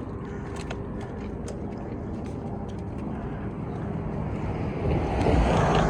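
Road traffic running steadily, with one vehicle passing close and growing louder near the end.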